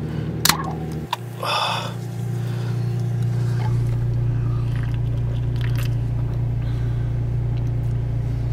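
Car engine running steadily, heard from inside the cabin as an even low hum, with a brief hiss about one and a half seconds in.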